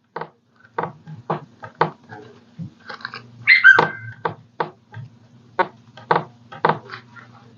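A small dog barking in short, repeated yips, about one or two a second, with one longer whining yelp that falls in pitch about three and a half seconds in. A faint steady hum runs underneath.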